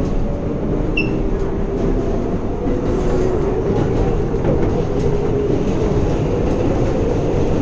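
New York City 7 local subway train running between stations, heard from inside the car. There is a steady rumble with a wavering hum of tones under it, and a brief high squeal about a second in.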